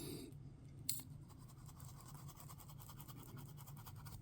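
Faint, quick scratching strokes of colour being brushed into a silicone resin mold, with one sharp click about a second in.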